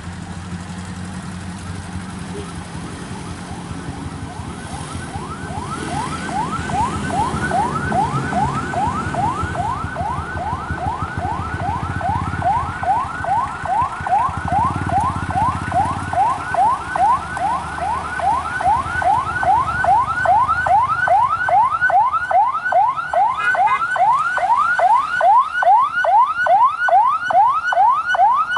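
Electronic siren sounding a fast repeating rising yelp, about three sweeps a second. It starts about six seconds in and grows louder toward the end, over a low engine rumble in the first half.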